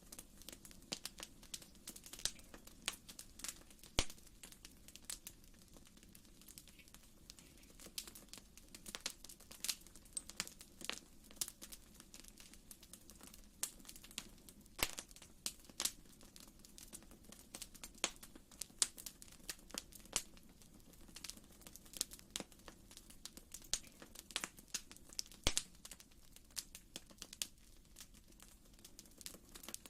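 Wood fire crackling in a fireplace: irregular snaps and pops, some sharper than others, over a soft steady low background.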